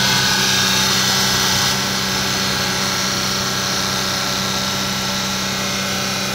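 Maruti Suzuki Alto 800's three-cylinder petrol engine running steadily at a raised idle while its electronic throttle body connector is unplugged during a throttle body reset. It gets slightly quieter about two seconds in.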